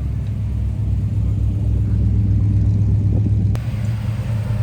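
Muscle car engine rumbling steadily at low revs, a deep pulsing exhaust note. A single sharp click about three and a half seconds in.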